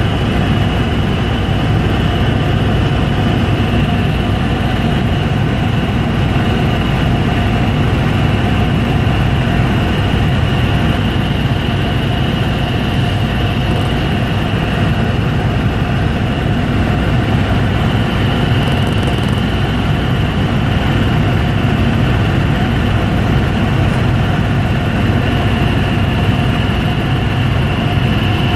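Helicopter in flight: a steady, loud drone of engine and rotor with a constant high whine above it.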